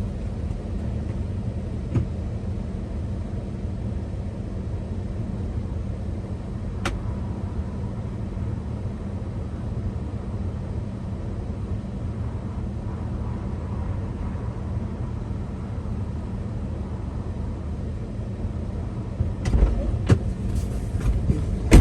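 Lifted Toyota Sequoia driving slowly over rough dirt, heard from inside the cabin: a steady low engine and tyre rumble with an occasional click. Near the end a few louder knocks come through, the kind of unfamiliar noise the driver is listening for from the newly lifted suspension with new struts.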